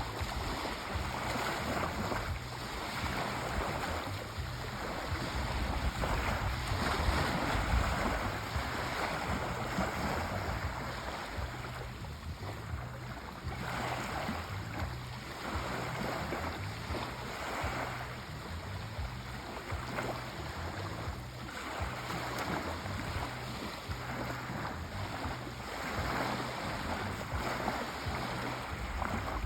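Sea waves washing on a shore, a steady rushing that swells softly every couple of seconds, with some wind on the microphone.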